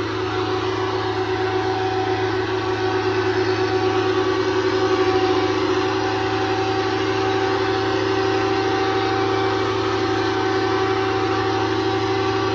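Belarus 510 tractor's diesel engine running at a steady speed, a constant hum with a steady whine over it.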